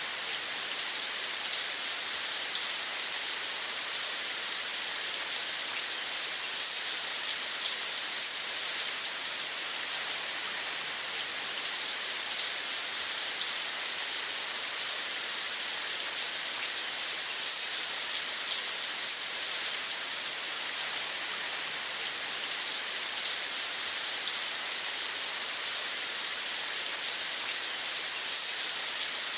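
Steady rain falling: an even, unbroken hiss, strongest in the high range.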